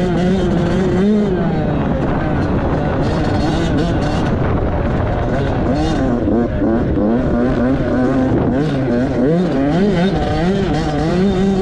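Dirt bike engine running hard while being ridden, its pitch rising and falling every second or two as the throttle is opened and closed.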